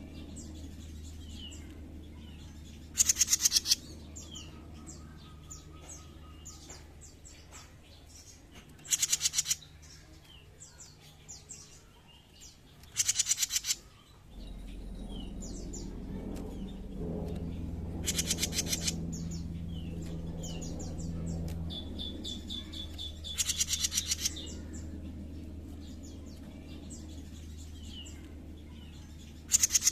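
Jenggot mini songbird singing: loud, buzzy rattling trills under a second long, repeated about every five seconds, with short chirps and whistles in between. A steady low hum runs underneath.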